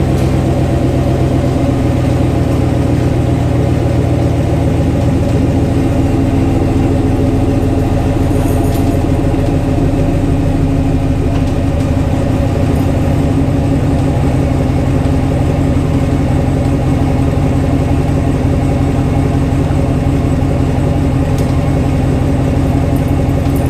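GMC Sierra AT4's 6.2-litre V8 running steadily through a custom true dual stainless exhaust, a low, even engine note with no revving.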